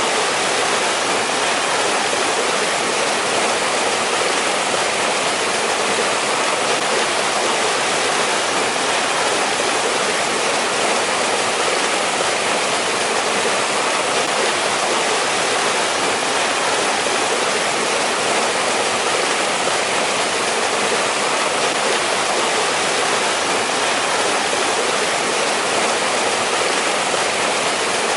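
Mountain valley stream flowing over rocks: a steady, even rush of running water with no change.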